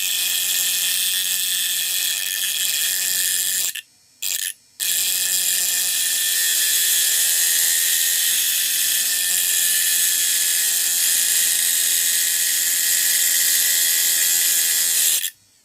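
Small 3-volt DC motor of a homemade mini electric grinder running at high speed with a steady high whine. It breaks off twice for a moment about four seconds in, then cuts off suddenly near the end.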